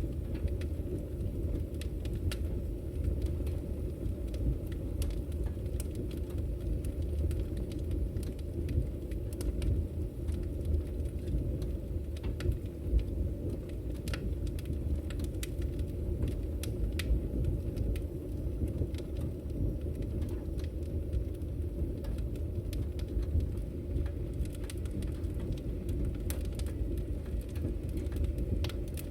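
Wood fire burning in a fireplace: a steady low rumble of the flames with frequent irregular crackles and small pops from the firewood.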